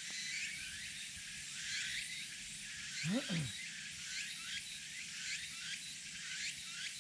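Forest wildlife chirping: many short, high chirps repeating irregularly and overlapping. A brief low sliding sound, falling then rising, comes about three seconds in.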